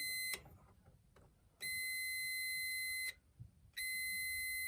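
Digital multimeter continuity beep: a steady high tone sounding three times, each for about a second or more, as the probes touch the new dryer thermal fuse. The unbroken tone shows the fuse conducts, so it is good.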